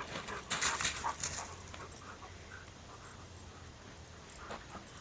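Dog panting, with a short burst of scuffling noise in the first second or so.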